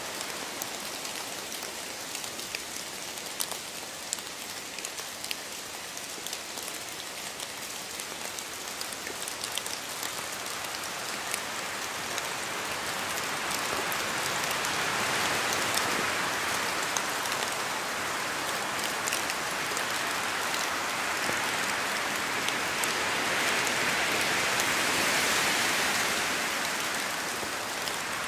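Steady rain falling, with individual drops ticking. It swells louder twice, around the middle and again near the end.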